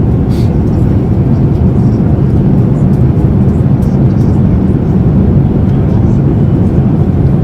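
Steady, loud low rumble of a vehicle in motion, heard from inside its cabin; it cuts off suddenly at the end.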